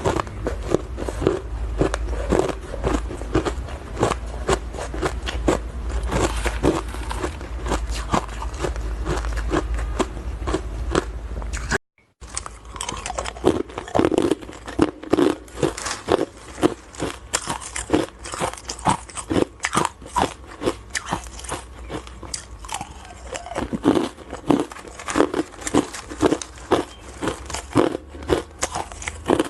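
Ice being bitten and chewed close to the microphone: dense, irregular crunching and crackling, with louder individual bites spaced about half a second apart in the second half. The sound drops out briefly about 12 seconds in.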